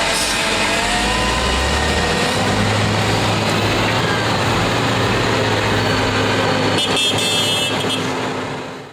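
Heavy vehicle engine running steadily under a rough, noisy din, with a brief high rattle about seven seconds in; the sound drops away sharply at the end.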